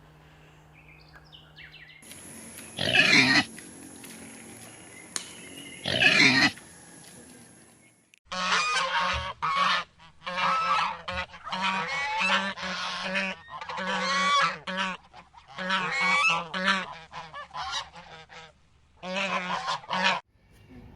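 Loud animal calls: two single calls about three seconds apart, then, after a brief break, a long run of repeated calls in quick bouts.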